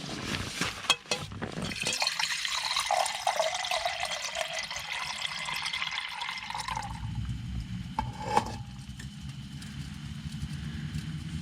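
Hot water poured into a dehydrated meal pouch for about five seconds, then a single knock; a low steady rumble follows.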